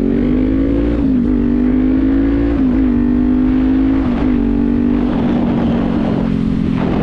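Kawasaki Z400's parallel-twin engine pulling up through the gears: engine pitch climbs, drops at three quick upshifts about one, nearly three and four seconds in, then settles to a steady cruise.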